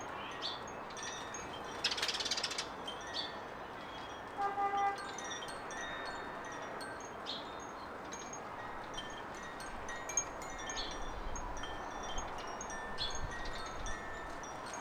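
Garden birds calling: many short, high chirps and twitters over a steady background hiss. Several clear, ringing held notes sound about four and a half seconds in and again later on.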